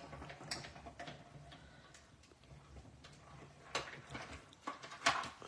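Hand-cranked die-cutting and embossing machine being turned, rolling a stack of cutting plates, cardstock and a die through its rollers, with a faint low rumble and light ticking, then a few sharper clicks near the end.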